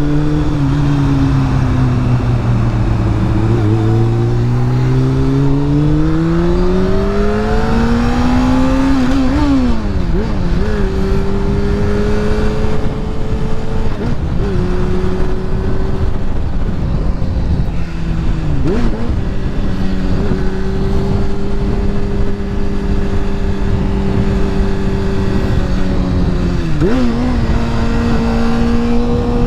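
Honda CBR sportbike engine under way: the note drops, then climbs steadily as the bike accelerates, breaks at a gear change about ten seconds in, and then holds a steady pitch while cruising, with short dips at further shifts around the middle and near the end. A heavy wind rumble on the rider's microphone runs under it.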